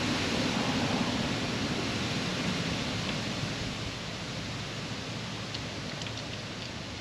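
Brake fluid and air spurting from an opened brake bleeder screw, a steady hiss that slowly fades, with a few faint ticks near the end. Air is still coming out with the fluid, a sign of air left in the brake lines.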